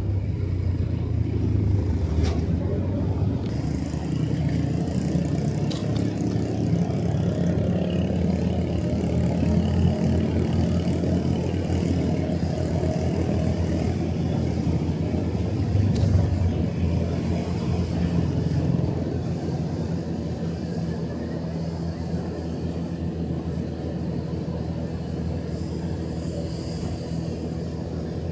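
Motorcycle engine running steadily on the move, a low rumble with road and wind noise, and a few sharp clicks.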